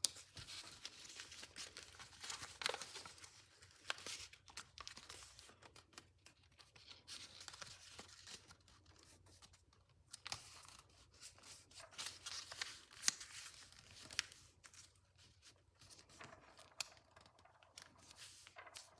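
Sheet of paper being folded and creased by hand: irregular rustling and crinkling with sharp crackles as folds are pressed flat, while a petal fold is made.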